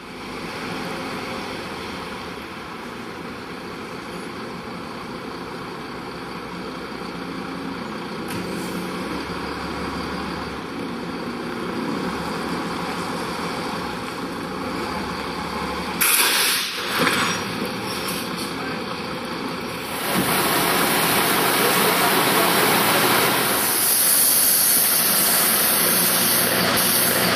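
A big truck's engine running under heavy load, labouring hard. About sixteen seconds in there are sudden loud hissing bursts. From about twenty seconds on, the sound turns into a louder, steady rushing noise.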